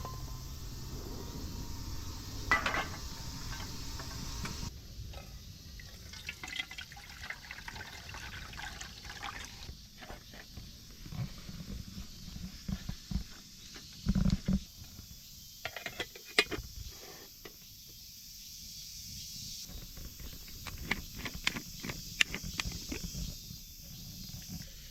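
Water being poured and sloshing in cookware while it is handled, with scattered clicks and knocks and one heavier thump about midway.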